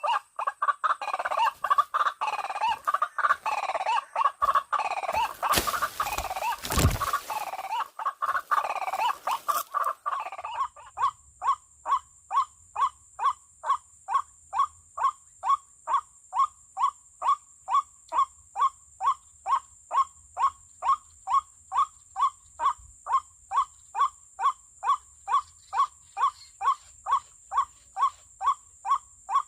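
White-breasted waterhen calls played through a bird-caller speaker as a lure: for about ten seconds a dense, loud chorus of croaking calls, with a short knock midway, then a steady run of short single notes, about two a second. A faint steady high whine runs underneath.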